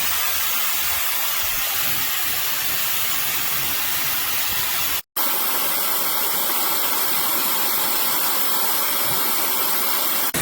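CNMSGM high-speed ionic hair dryer running, a loud steady rush of air with a faint high motor whine, cut off suddenly for a moment about halfway through before starting again.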